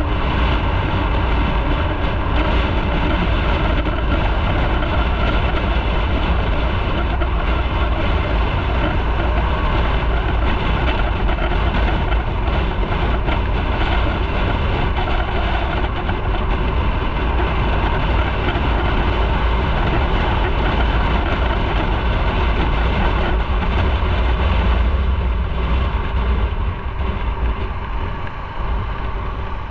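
Motorcycle on the move: a steady engine and road rumble with heavy low wind buffeting, growing quieter near the end.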